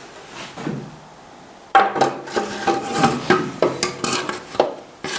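Metal rocker cover being fitted onto a Ford 800 tractor engine: a run of clanks, clinks and scraping of metal on metal that starts about two seconds in, with short ringing tones.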